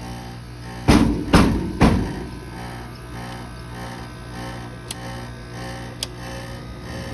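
Window air conditioner running with a steady compressor hum. About a second in come three heavy thumps roughly half a second apart, and two sharp clicks follow later.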